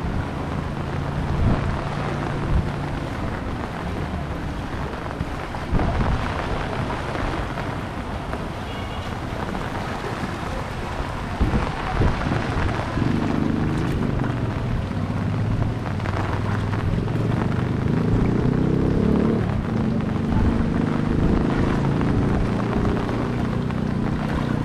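Steady rain and wind noise over a flooded street, with water sloshing as someone wades through the floodwater and a few sudden splashes. From about halfway a motor engine hums low underneath.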